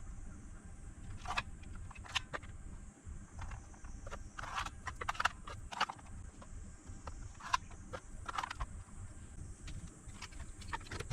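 Irregular light clicks and clacks of lithium-ion battery cells and tester probes being handled, over a steady low hum.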